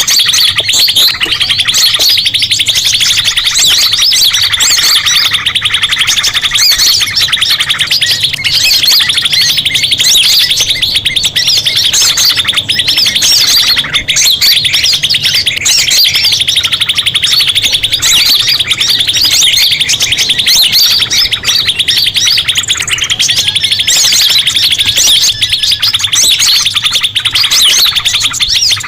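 Bird-lure recording of small songbirds, a mix of sunbird and prinia calls: a dense, unbroken rapid high trill with sharp chirps layered over it, played loud.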